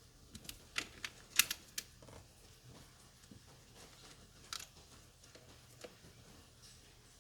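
A handful of irregular sharp clicks and taps from small hard objects: a quick cluster in the first two seconds, the loudest about a second and a half in, then two single clicks later.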